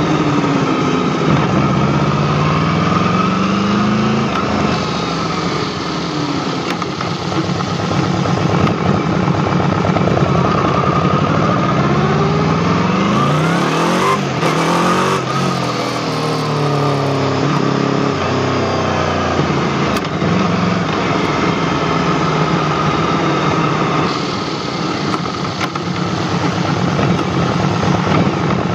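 Yamaha V-Max's V4 engine under way, its pitch rising as it accelerates and dropping back several times as it shifts and eases off. A short burst of hiss comes about halfway through.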